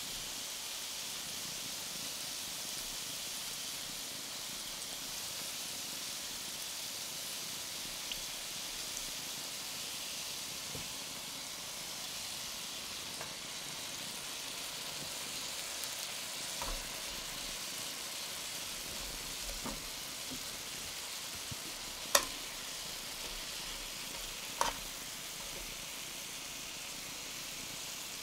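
Duck breasts, new potatoes and carrots sizzling steadily in a stainless sauté pan with a sweet and sour soy glaze. A few sharp clicks come over the sizzle, the loudest two a couple of seconds apart in the last third.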